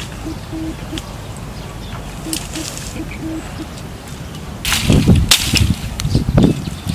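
A few short, low, steady hoots from a bird over a steady low rumble, then a run of loud bursts of noise from about five seconds in.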